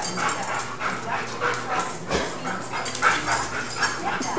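Rottweiler whimpering and yipping in short, rapid cries while playing.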